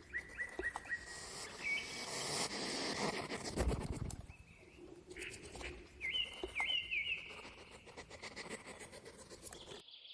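Hedgehog rustling and snuffling, with small birds chirping in the background: short high chirps at the start and again about two-thirds of the way through.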